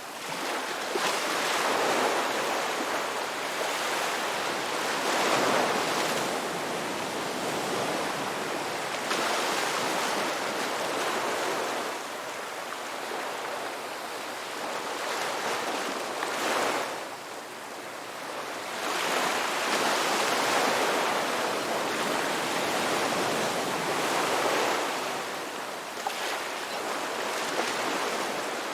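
Ocean surf breaking and washing on a beach, the rush of water swelling and easing every few seconds.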